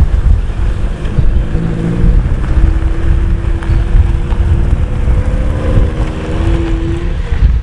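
Wind buffeting the microphone over a vehicle on the move: a Toyota pickup's freshly swapped 22R four-cylinder engine running under way, with a few held engine tones that shift in pitch through the middle.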